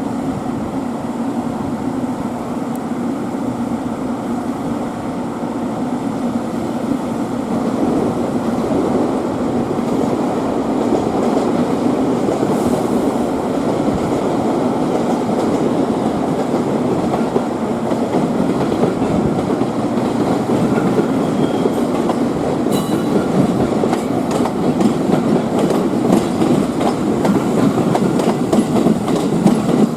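Electric multiple-unit train running on the depot tracks, its wheels clacking over rail joints and points. It grows louder from about eight seconds in, with more frequent clacks near the end.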